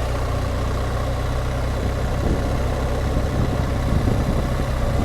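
BMW R1200GSA's boxer-twin engine running at a steady pace while riding, with wind and road noise over it.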